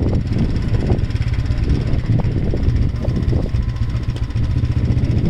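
Vehicle engine running steadily with a loud, continuous low rumble.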